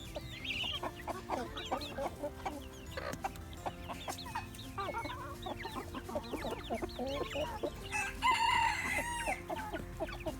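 A flock of chickens clucking and calling over one another, many short overlapping calls, with one louder, longer call about eight seconds in.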